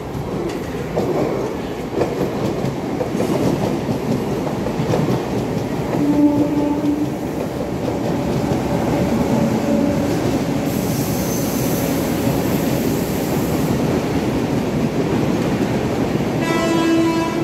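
Electric locomotive-hauled passenger train running through the station alongside Mumbai local trains, wheels steadily rumbling on the track. A train horn sounds briefly about six seconds in and again near the end, and a high hiss comes in for a few seconds in the middle.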